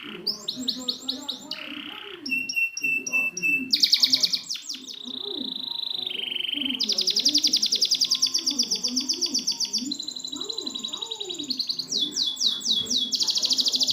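Domestic canary song: fast trills and rolls of closely repeated high notes, each phrase switching suddenly to a new syllable type, with a fainter low warbling sound underneath.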